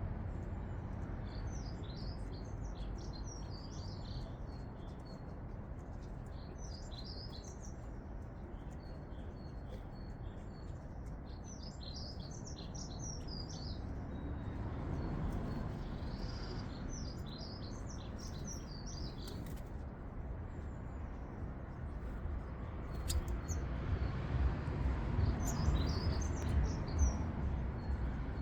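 A garden songbird singing in short bursts of quick, high, twittering notes, five phrases a few seconds apart, over a steady low rumble of distant traffic that swells twice.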